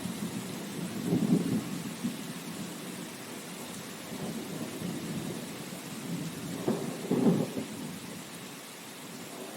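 Steady rain hiss with low rumbles that swell twice, about a second in and again about seven seconds in.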